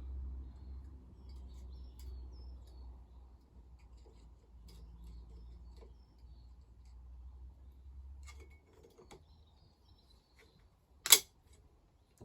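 Faint small metal ticks of a circlip being worked down inside a 1983 Maico 490 fork tube over a low hum that stops about eight and a half seconds in, then one sharp, loud click about eleven seconds in as the circlip snaps into its groove.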